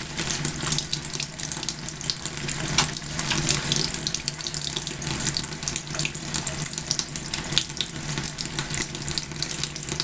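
Water running steadily from a sink tap while wet hands rub and lather a bar of goat milk soap, with fine crackling and splashing over the steady rush.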